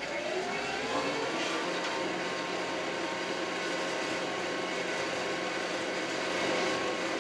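Kioti RX7320 tractor's diesel engine revving up over the first second, then running steadily at the higher speed.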